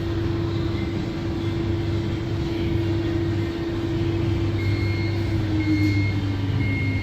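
Electrolux stacked tumble dryer running its fan and drum with a steady hum, then winding down as its motor tone slides lower near the end, the cycle finishing. From about two-thirds of the way in, a repeated electronic beep sounds on and off, signalling the end of the cycle.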